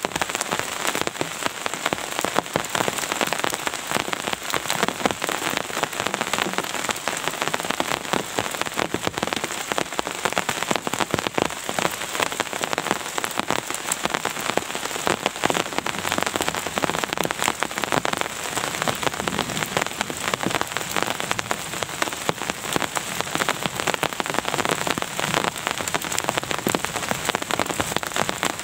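Steady rain, with dense drops striking a surface in a constant stream of small ticks.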